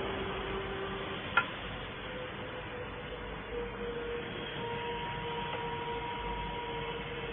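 A 2 kW CNC fiber laser cutting machine running: a steady hiss with a few steady hum tones that shift as it goes, and one sharp click about 1.4 seconds in.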